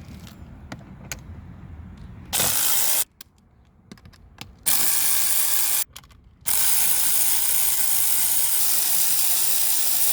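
A power tool runs in three bursts, short, medium and then a long steady run of about four seconds, backing out the bolts on the underside of an inverter generator that lock its engine mount for shipping.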